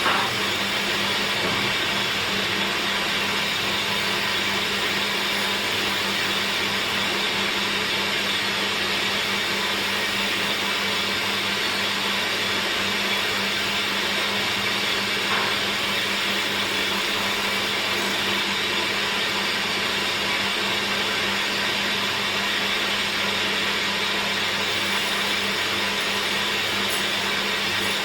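Electric woodworking machine running steadily with a constant motor hum, with one faint tick about halfway through.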